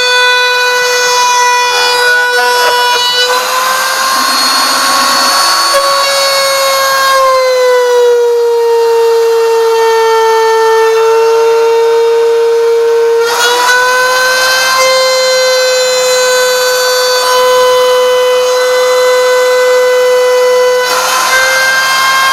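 CNC router spindle cutting parts, a loud steady whine whose pitch sags for a few seconds in the middle as the cut loads it, then recovers, with a rough cutting hiss added in stretches.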